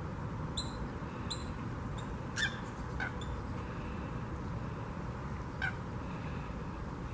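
About seven short, sharp bird calls, several dropping in pitch, the loudest about two and a half seconds in, over a steady low background rumble.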